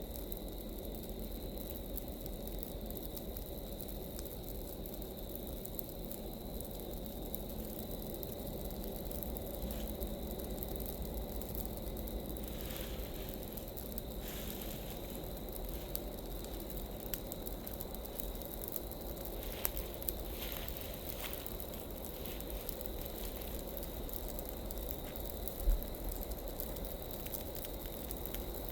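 Large pile of dry leaves burning: a steady rushing roar of flames with scattered crackles and pops, and one louder pop near the end.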